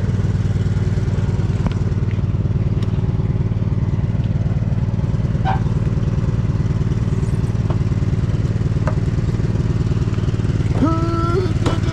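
Riding lawn mower engine running steadily at idle, with fast even firing pulses. A short voice sound comes near the end.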